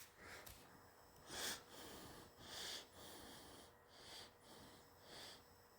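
Near silence, broken by a few faint breaths or sniffs close to the microphone.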